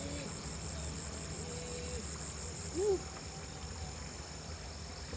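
Steady high-pitched insect chorus, with a brief low tone about three seconds in.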